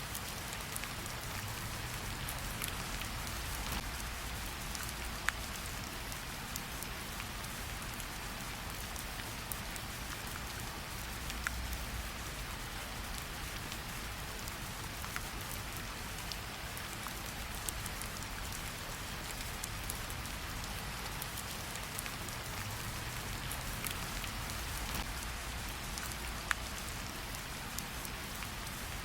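Steady rainfall hissing evenly over a low rumble, with a few sharp louder drops ticking now and then.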